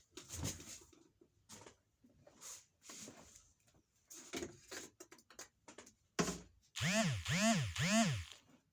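Scattered light clicks and rustles of handling, then from about seven seconds in a loud repeating warble: a pitched tone that rises and falls, about two a second.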